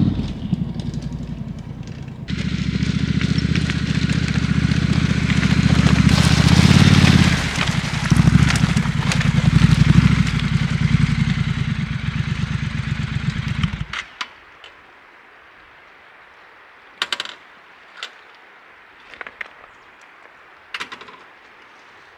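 Triumph Scrambler 1200 XE's parallel-twin engine running with an even pulsing beat and a hiss over it, getting louder a couple of seconds in and easing briefly near the middle. It stops suddenly about two-thirds of the way through, and a few light clicks and knocks follow.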